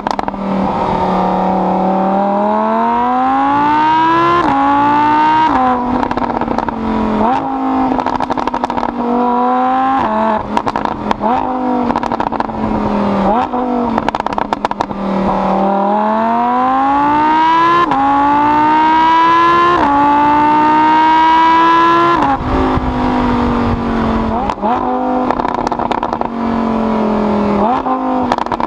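Lamborghini Huracán's V10 heard from inside the cabin, accelerating hard through the gears: the engine note climbs and drops back at each upshift, with sharp cracks between some of the shifts. After a long pull that holds steady for a few seconds, the engine eases off about three-quarters of the way through and winds down in steps.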